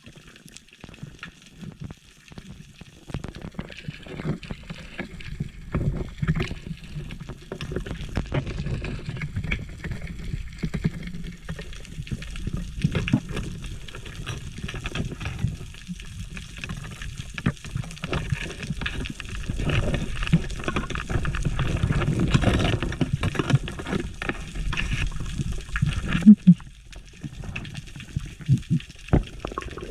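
Water sloshing and gurgling around a camera held at or just under the sea surface, with scattered clicks and knocks, swelling louder for a few seconds toward the end before dropping off.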